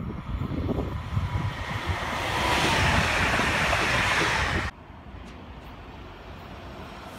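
An electric passenger train passing close by at speed: a rising rush of wheel and air noise, with wind buffeting the microphone. It cuts off sharply about two-thirds of the way through, leaving a quieter steady hiss.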